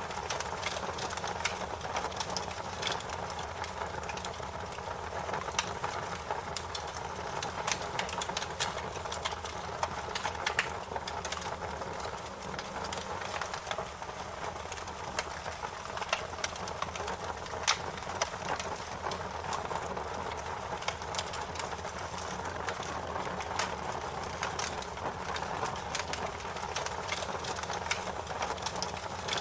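Wood fire crackling steadily, with frequent sharp pops and snaps over a constant low rush of flame.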